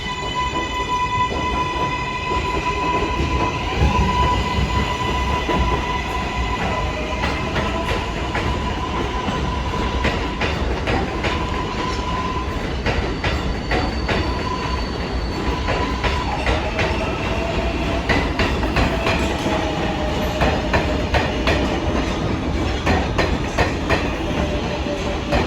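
R188 subway train pulling out of the station. Its traction-motor whine climbs in pitch and then holds a steady high tone for about twelve seconds, while the wheels click over rail joints. A lower whine slowly falls in pitch through the last third.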